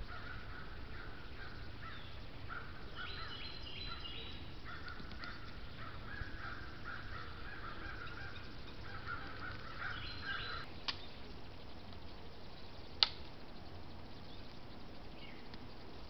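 Harsh bird calls repeated in a long series for about ten seconds, then two sharp knocks a couple of seconds apart, the second louder.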